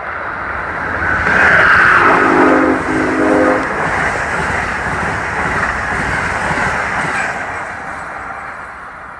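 Amtrak passenger train double-headed by Siemens ACS-64 electric locomotives passing at speed: a building rush and rumble of wheels on rail, with a short horn chord about two seconds in, then the cars streaming past as the sound slowly fades.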